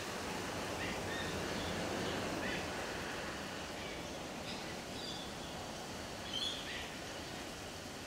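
Steady outdoor background hiss with short bird chirps now and then through it, the loudest about six and a half seconds in.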